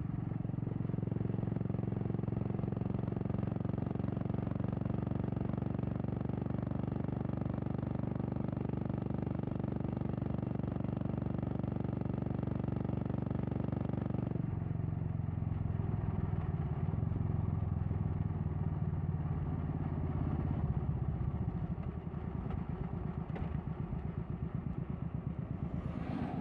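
Royal Enfield Classic 350's single-cylinder engine, fitted with a Red Rooster aftermarket exhaust, running steadily under way. About halfway through its pitch drops, and later it settles into a lower, slower pulsing beat.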